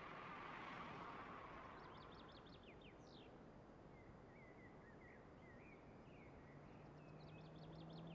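Faint birdsong over quiet outdoor ambience: a bird sings two phrases of rapid trilled notes ending in a falling whistle, with softer chirps between. A soft rush of noise fades over the first two seconds, and near the end a car engine's low hum faintly comes in.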